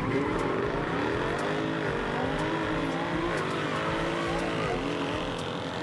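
BMW M4 F82's twin-turbo straight-six under full-throttle acceleration from a launch-control start, revs climbing and dropping back at three quick upshifts.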